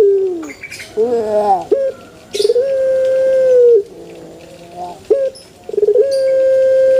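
Puter pelung dove (Streptopelia risoria) calling: long, level, drawn-out coos, each dropping in pitch at the end, with short, lower, falling notes between them. Two long coos come about two seconds in and about six seconds in, and the second carries past the end.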